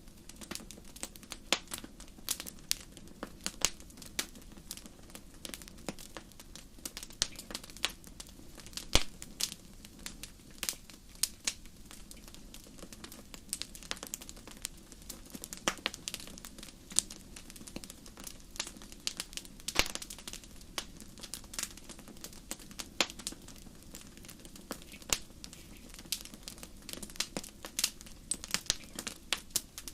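Wood campfire crackling: sharp, irregular pops and snaps several times a second, a few of them much louder, over a faint low rush.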